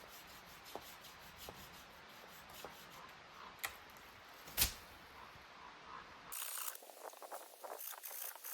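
Small dry sticks and twigs being handled and snapped while a campfire is laid, with scattered sharp snaps, the loudest about four and a half seconds in. About six seconds in it turns to a denser run of rustling and crackling.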